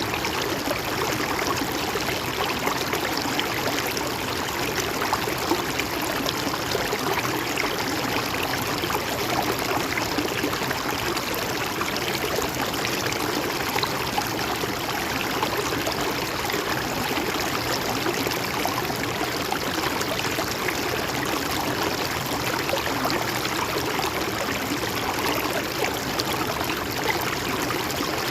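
Water of a stream or river flowing steadily over stones, a continuous even rushing and babbling.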